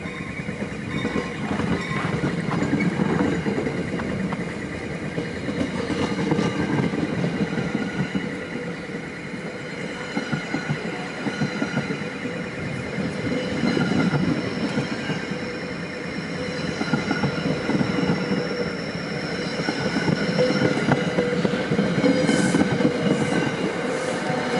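NJ Transit passenger coaches rolling past at a station: a steady rumble of wheels on rail with scattered clicks and thin, steady high-pitched wheel squeal. It grows louder toward the end as the electric locomotive at the rear draws near.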